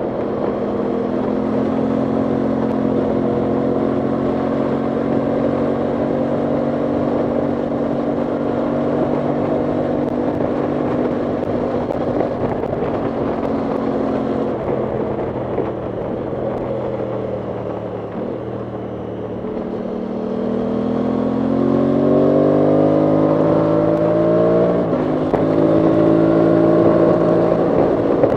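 Aprilia Tuono 660 Factory's parallel-twin engine running under way at a steady pitch, easing off somewhat past the middle. About two-thirds of the way through it revs up in a steady rise for a few seconds, then the pitch drops suddenly with an upshift and it runs on steadily.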